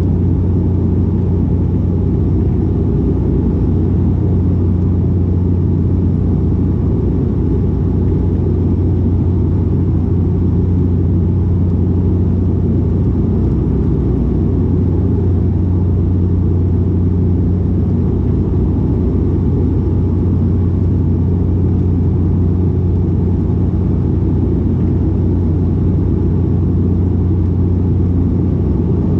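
Steady cabin drone of a De Havilland Canada Dash 8-400 turboprop heard from inside the cabin: the propellers give a constant low hum over a rumble of engine and airflow, unchanging throughout.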